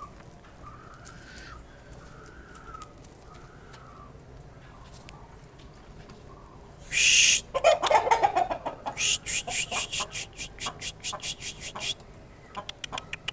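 Aseel (Heera) chickens making soft, arching clucking calls. About seven seconds in comes a loud brief rustling burst, then a fast run of sharp ticks, roughly four a second.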